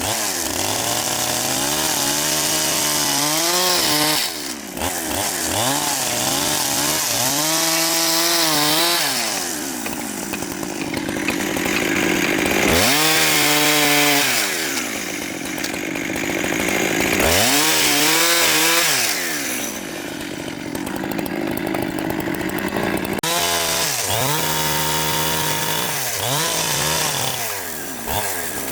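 Petrol chainsaw cutting wood, its engine revving up and dropping in pitch again and again as the chain bites and is eased off.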